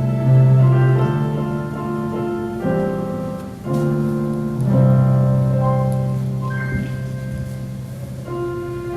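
Piano playing slow, held chords that change every second or two.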